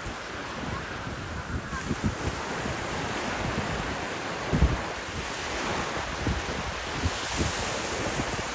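Ocean surf washing steadily, with wind buffeting the microphone in irregular low thumps.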